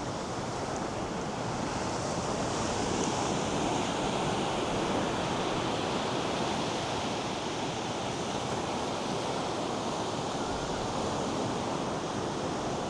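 North Sea surf breaking and washing up a sandy beach: a steady rushing wash that swells a little a few seconds in, with some wind on the microphone.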